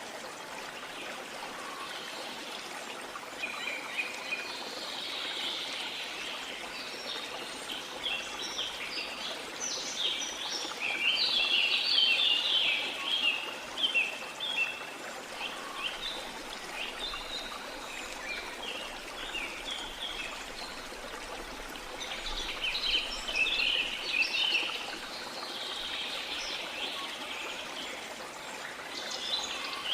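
Steady rush of running water under bursts of small songbirds chirping and twittering, with the birds busiest a little before the middle and again at the end.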